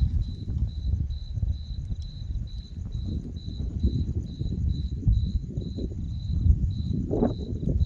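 A cricket chirping steadily, about two and a half chirps a second, over a loud, uneven low rumble from the approaching thunderstorm.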